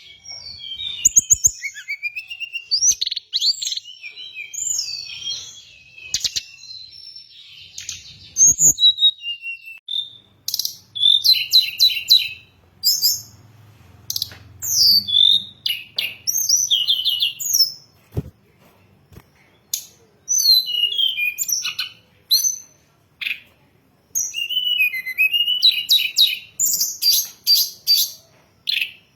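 Tledekan gunung, a mountain flowerpecker, singing: rapid, high-pitched chirps, trills and short twittering phrases in quick runs, broken by a few brief pauses, as played for song-tutoring and luring birds.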